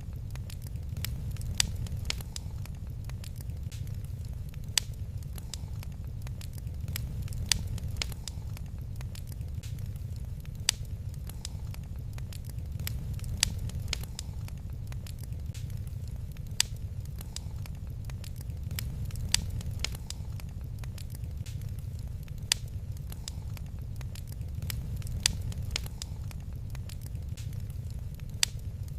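Wood fire crackling in a fireplace, with a loud sharp pop about every three seconds among fainter crackles, over a steady low rumble.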